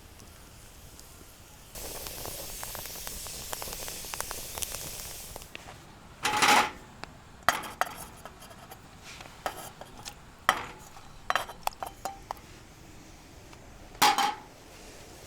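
Metal cookware being handled: a few seconds of steady hiss, then a run of metal clanks and knocks, two of them louder with a short ring.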